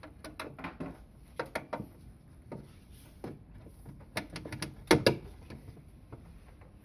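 Plastic clicks and knocks from handling the refrigerator's interior lamp parts, an irregular run of sharp taps with a louder double knock about five seconds in.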